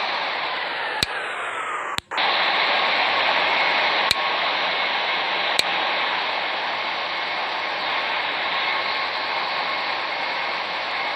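Steady rushing jet airliner noise, with a falling whine over the first two seconds. A brief dropout comes about two seconds in, and a few sharp clicks are scattered through it.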